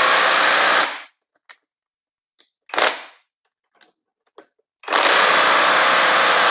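Impact wrench hammering on a stubborn crankshaft pulley bolt. It runs for about a second, stops, gives a short burst near the middle, and starts again about five seconds in.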